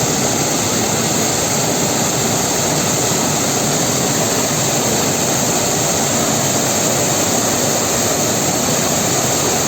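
Waterfall: a loud, steady rush of falling water that holds even and unchanging throughout.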